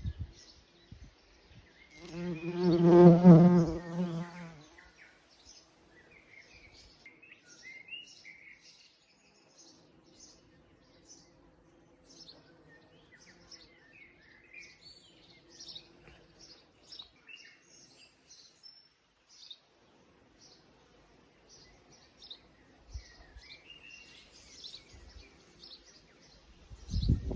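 A bumblebee buzzes loudly past close by, from about two seconds in to about four and a half seconds in, its hum swelling and fading. Small birds chirp and sing throughout, and a fainter, steadier bee buzz hums from about ten to twenty seconds in.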